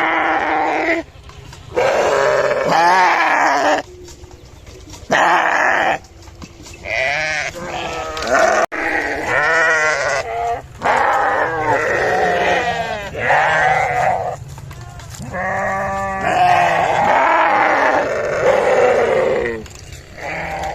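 Sheep bleating over and over: a string of loud, quavering calls, each a second or two long, with short pauses between them.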